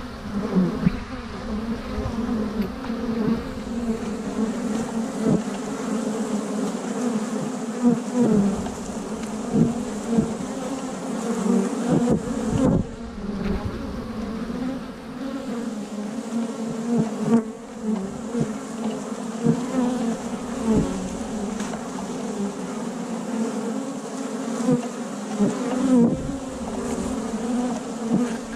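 Many honey bees in flight buzzing around the microphone: a dense, wavering hum, with single bees now and then zooming close past and away.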